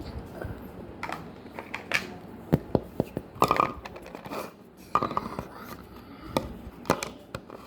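Slime being squeezed and pulled in the hands: an irregular run of short squelches and pops.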